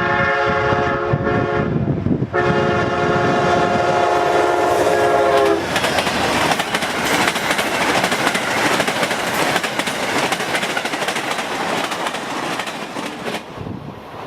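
Locomotive air horn sounding two long blasts, then the train rolling past with steady wheel-on-rail rumble and clickety-clack, fading away near the end.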